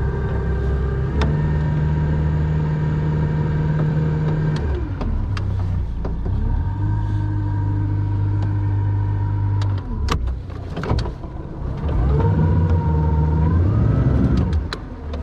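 Boat motor running in bursts of power, its pitch stepping up and down several times and dropping away briefly about ten seconds in, as the boat is driven forward and back to work it off a stump it is stuck on. A few sharp knocks come through.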